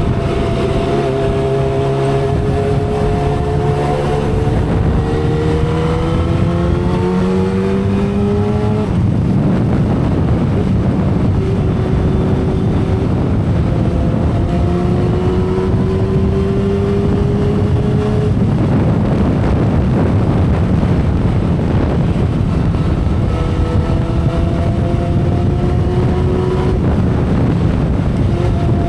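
2012 Kawasaki Ninja ZX-10R's inline-four engine running at expressway speed, its pitch climbing steadily through the first third, breaking off, then climbing again midway and near the end. Heavy wind rush under the exhaust note.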